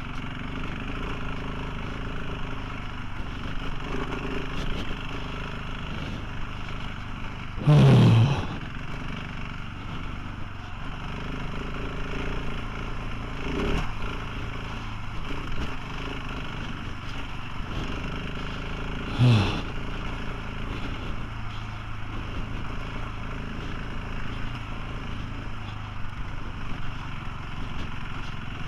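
Motorcycle engine running steadily on the move, with rushing wind and road noise. Two brief louder sounds stand out, about 8 and 19 seconds in.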